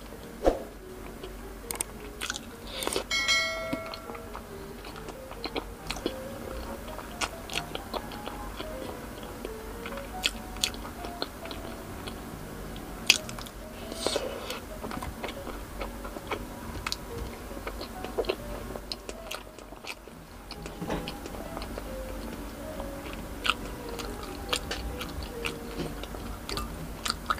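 Close-miked biting and wet chewing of fried street food taken off skewers, with many short sharp mouth clicks, over soft background music.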